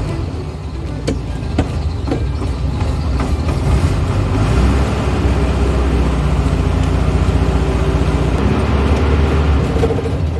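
1970s Volkswagen's engine running while the car is driven, its pitch shifting with speed. A few sharp clicks sound in the first few seconds.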